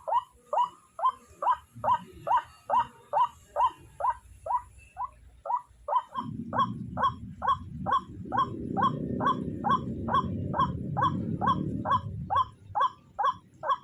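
White-breasted waterhen (ruak-ruak) calling: a fast, very even run of short repeated call notes, about two to three a second, that goes on without a break. A low rumbling noise rises under the calls about six seconds in and fades again about twelve seconds in.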